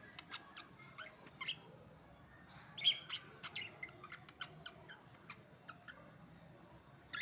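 Budgerigars chirping with short, sharp calls, a louder burst of chatter about three seconds in.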